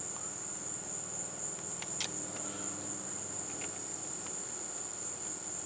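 Crickets trilling in a steady, unbroken high-pitched chorus, with a faint click about two seconds in.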